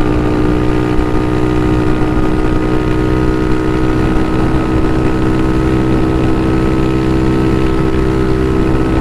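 Bashan Motomax 250 supermoto's single-cylinder engine running steadily at an unchanging pitch.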